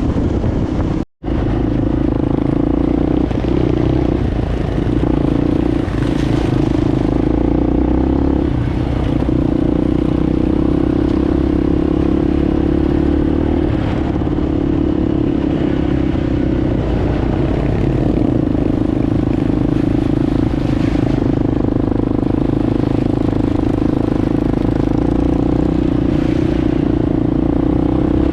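Enduro motorcycle engine running while riding, its steady note easing off and picking up again every few seconds with the throttle, with some clatter over rough ground. The sound cuts out completely for an instant about a second in.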